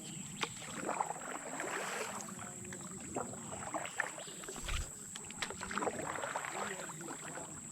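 Canoe paddling on a river: paddle strokes dipping and splashing in the water, with scattered small clicks and knocks at irregular times.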